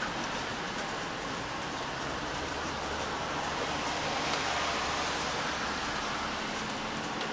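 Steady rain falling, with a few sharper single drips. In the middle a low rumble swells and fades.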